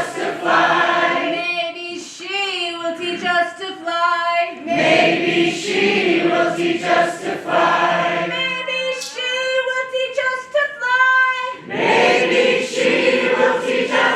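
An opera chorus of several voices singing together. About two seconds in, and again about eight seconds in, the sound thins to a few higher voices sliding up and down in pitch, before the full chorus returns.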